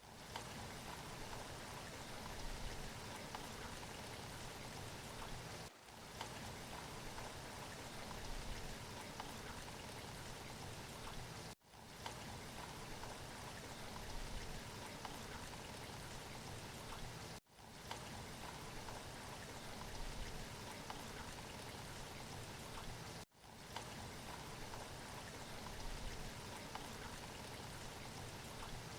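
Steady rain falling, an even hiss of drops, cutting out briefly about every six seconds where a short rain recording loops.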